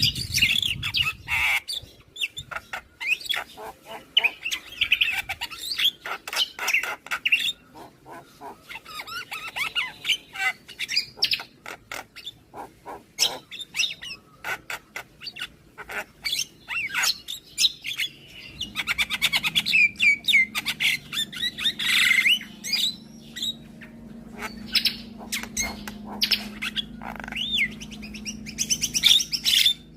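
Javan mynas (jalak kebo) chattering and singing: fast runs of clicks and harsh squawks mixed with short whistled notes. A low steady hum joins about two-thirds of the way through.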